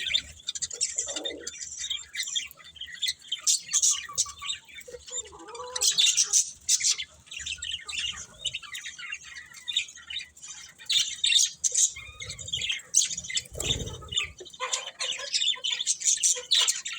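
Budgerigars chirping and chattering, many short high calls overlapping without pause. A brief low flutter or thump stands out about two-thirds of the way through.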